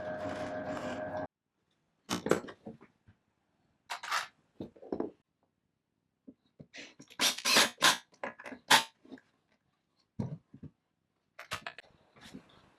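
A steady hum with several held tones that cuts off abruptly about a second in, then scattered sharp knocks and clicks in small clusters, separated by silence.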